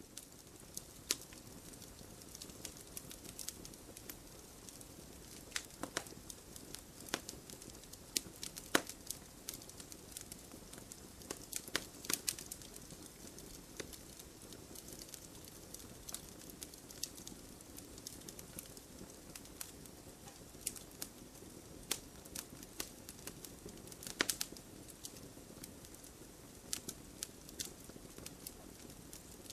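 Wood fire crackling in a fireplace: a steady low hiss with frequent irregular pops and snaps, a few of them sharper and louder.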